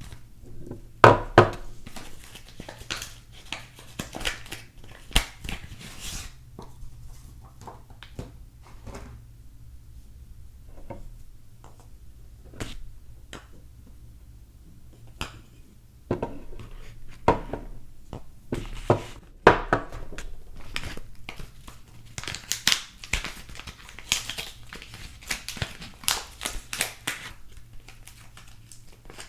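Hands unwrapping packaged soap bars: wrapping crinkling and tearing in close, irregular crackles, with a few sharper knocks and denser crinkling near the end.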